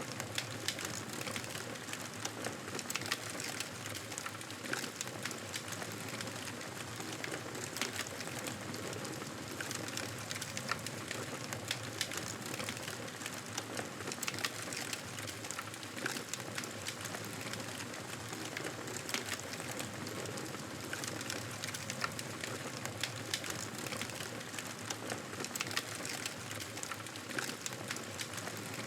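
Wood fire crackling, with frequent small pops and snaps over a steady hiss.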